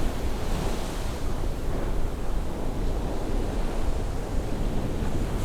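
Sea waves washing onto the shore on a rising tide, a steady rush of surf with a swell fading just after the start, with some wind noise on the microphone.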